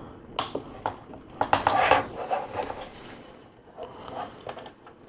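Hard plastic LEGO pieces clicking and rubbing as a flexible tube is slid through a hole and worked into clips. There are several sharp clicks in the first two seconds and another near the end.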